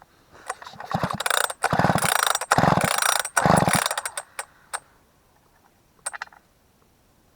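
Husqvarna 44 two-stroke chainsaw being pull-started: the recoil starter rattles and the engine cranks over in several quick pulls in a row, without catching. A short rattle follows about six seconds in.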